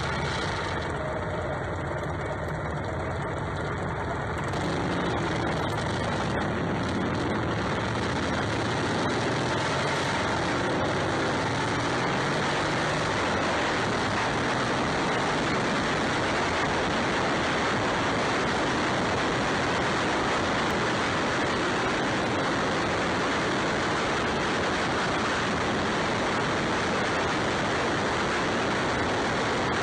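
Motorcycle engine running steadily under a dense rush of noise that thickens and grows a little louder about four to five seconds in.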